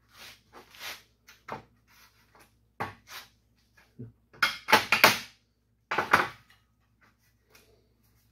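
Irregular knocks and scrapes of a steel car grille bar being handled and forced into position by hand, with a cluster of louder knocks near the middle and another about six seconds in.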